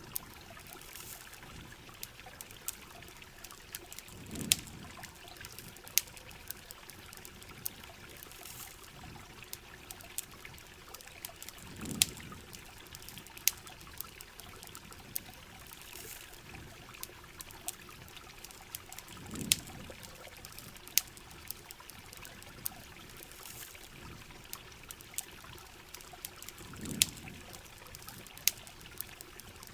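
Steady heavy rain with the sharp, scattered pops of a crackling campfire, and a low rumbling swell about every seven and a half seconds.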